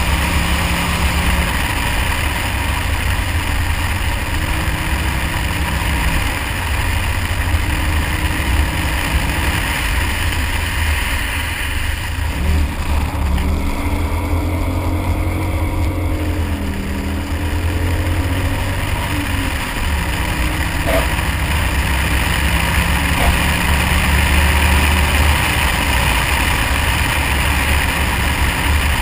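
Car engine running under load as the car drives across snow and ice, heard from outside the car with a heavy low rumble. About halfway through, the engine note rises and falls several times with throttle changes.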